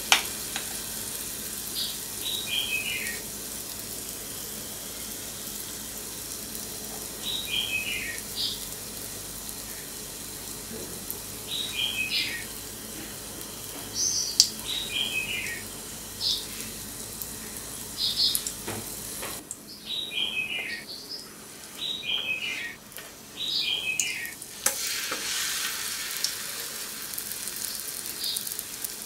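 Pancake batter frying in hot oil in a pan, a steady sizzle that grows louder near the end. Over it a bird sings over and over: short runs of chirps falling in pitch, every two to three seconds, with a sharp click or two.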